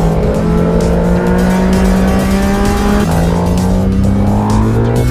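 Yamaha MT-09 SP's inline three-cylinder engine through its Akrapovič exhaust, heard on board while riding: the engine note climbs slowly, drops once about three seconds in at a gear change, then climbs again.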